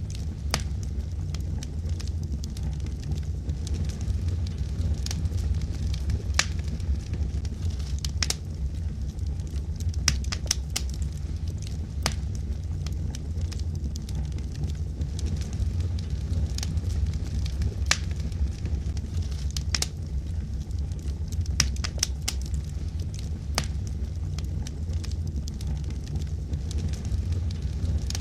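Wood logs burning in a fireplace: a steady low rumble of the flames with frequent sharp crackles and pops scattered irregularly throughout.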